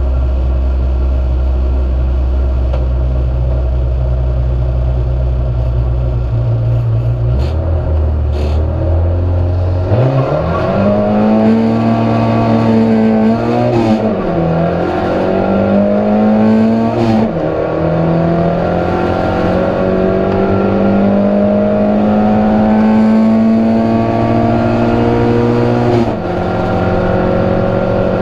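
Proton Saga race car engine, first held at steady revs, then accelerating hard from about ten seconds in. The pitch climbs through the gears, with quick drops at upshifts around a third of the way through, just after halfway and near the end.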